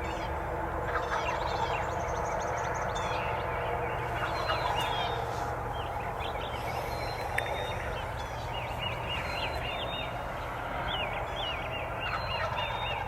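Wild turkeys gobbling, with songbirds chirping throughout.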